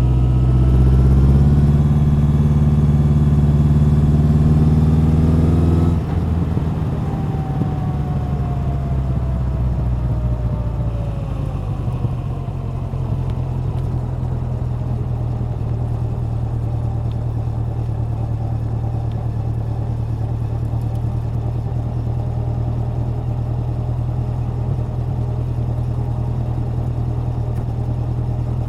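Honda CB1100's air-cooled inline-four engine and exhaust pulling with rising pitch under throttle. About six seconds in the throttle is shut and the pitch falls away as the bike slows. From about twelve seconds in it settles into a steady low-revving note.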